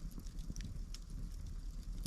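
Wood campfire crackling, with irregular sharp snaps and pops over a low steady rumble.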